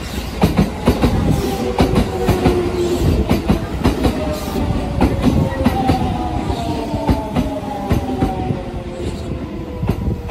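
Shin-Keisei Line electric train moving along the platform, its wheels clattering over rail joints. Over the clatter runs a motor whine of several tones that falls slowly in pitch as the train slows.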